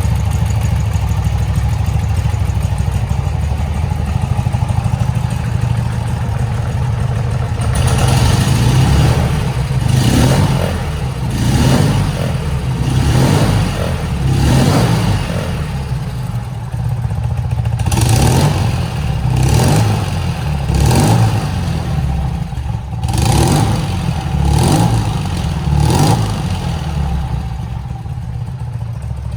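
1978 BMW R80/7's air-cooled flat-twin engine idling, then blipped about a dozen times with short stabs of the throttle before settling back to idle near the end.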